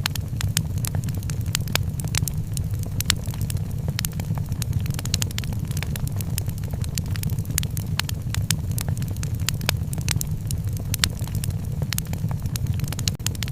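Wood fire crackling, with frequent sharp, irregular pops and snaps over a steady low rumble.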